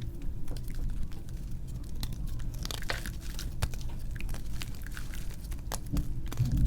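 Reformed gym chalk, glittery and soft-crunchy, being crushed by hand in sped-up playback: a fast, irregular run of small crunches and crackles over a steady low hum.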